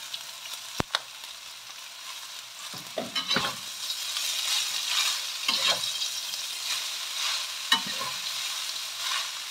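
Shredded green papaya frying in a hot oiled wok: a steady oil sizzle that grows louder from about three and a half seconds in as the papaya is tossed and stirred, with a metal spatula clicking and scraping against the wok now and then.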